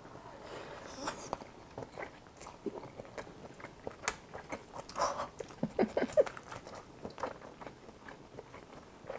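Close-up mouth sounds of someone chewing a mouthful of ham and white rice from army stew: soft, irregular wet chewing and lip smacks, with a couple of short hums near the middle.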